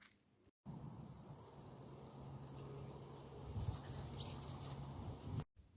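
Crickets trilling in a steady, high, rapidly pulsing tone over a faint low hum. The sound starts abruptly about half a second in and cuts off abruptly just before the end.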